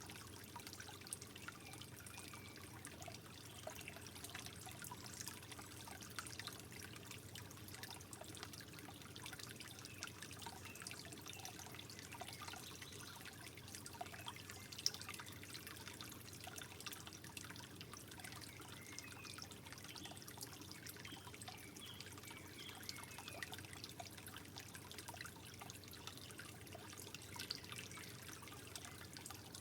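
Water softly trickling, with many small drips and one sharper drip about halfway through.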